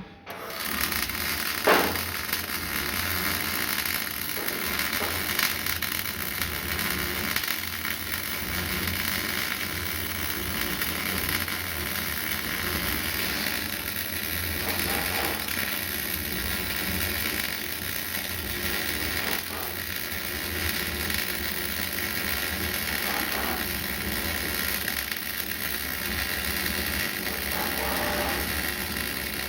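Electric arc welding running steadily: a continuous hiss over a low hum, with one sharp click about two seconds in.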